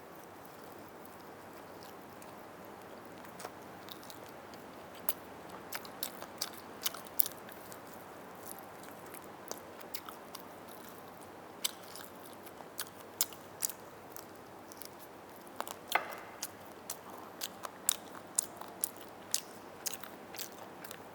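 Close-miked eating of roast chicken: chewing and biting, with many irregular sharp mouth clicks that begin about three seconds in.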